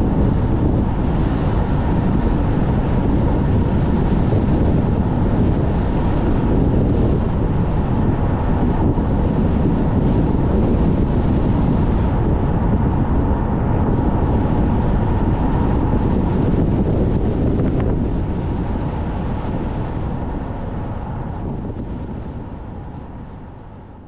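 Strong wind buffeting the microphone over the low rumble of a car driving, fading out over the last several seconds.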